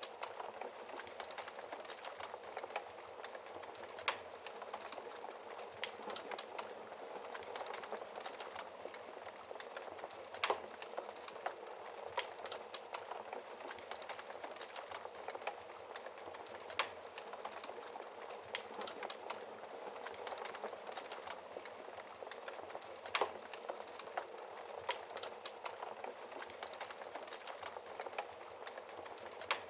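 Wood fire crackling steadily with dense small snaps and an occasional louder pop.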